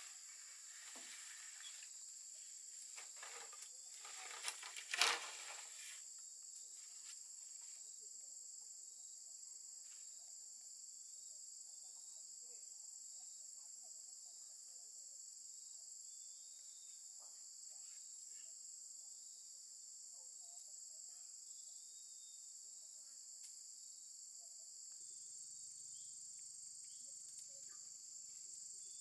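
Steady high-pitched chorus of insects, with one sharp knock about five seconds in and scattered light rustling and clicks around it.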